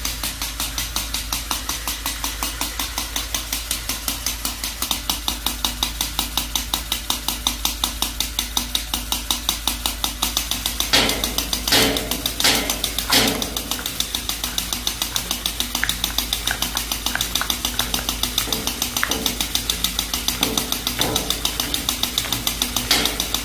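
Small homemade metal machine driven through angle-grinder gears, running with a rapid, even knocking of about four beats a second. A few louder metallic clanks come about eleven to thirteen seconds in.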